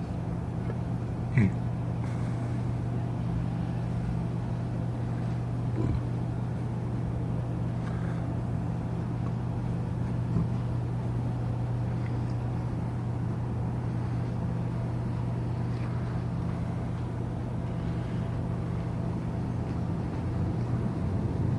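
Steady low machinery hum of a cruise ship during docking, with a short sharp knock about a second and a half in.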